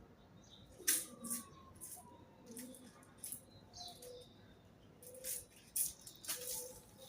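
Birds moving about, giving a string of short, irregular scratchy rustles and flaps, with faint short calls between them.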